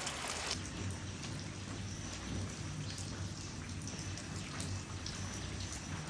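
Rain falling on plants, with individual drops ticking. A heavy rush of rain cuts off abruptly about half a second in, leaving lighter rain over a low rumble.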